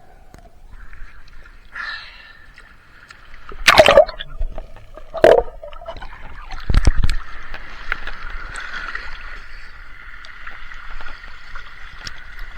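Sea water sloshing and splashing around a swimmer, with three loud bursts about four, five and seven seconds in, then a steady hiss of water.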